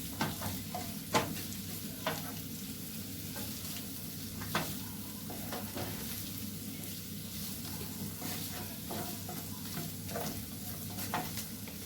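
Onions frying in a pan, with a steady sizzle and scattered clicks of a utensil stirring against the pan.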